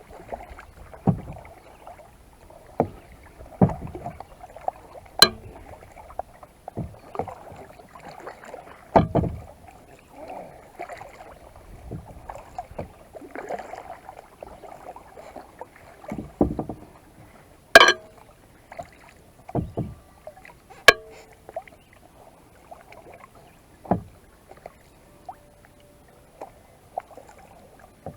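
Kayak paddling: a paddle dipping and splashing at an uneven pace, with sharp knocks every few seconds, the loudest about two-thirds of the way through.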